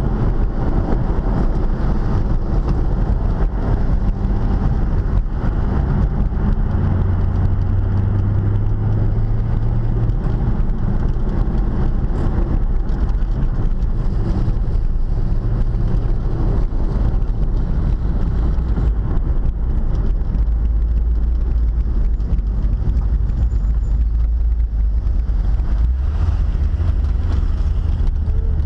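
Chevrolet Corvette's V8, fitted with an aftermarket cam, running under load, heard from inside the cabin with road and wind noise. The engine note holds steady for seconds at a time and settles into a low, even drone near the end as the car slows.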